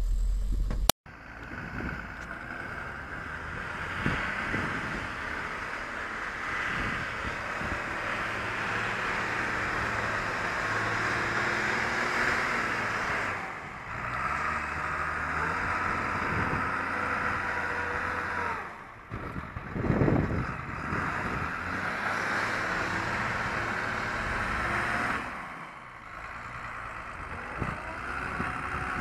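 Motor vehicle engines running across a run of short clips, the sound cutting abruptly from one to the next several times.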